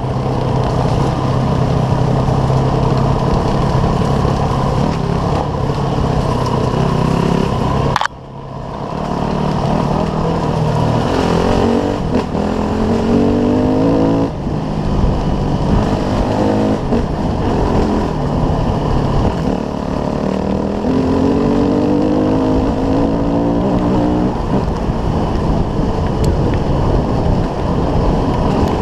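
Small off-road motorcycle engine running under way, its revs rising and falling through the gears. There is a sudden break about eight seconds in.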